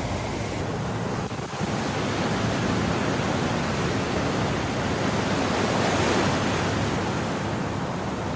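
Steady rushing of fast-moving floodwater, a constant even noise with no break.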